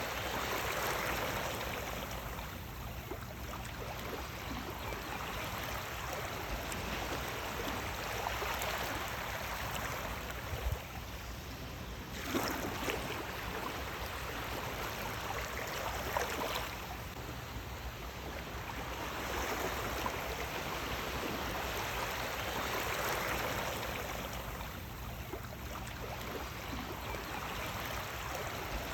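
Sea waves washing onto a shore, the surge swelling and easing about every seven seconds, with a few sharper splashes along the way.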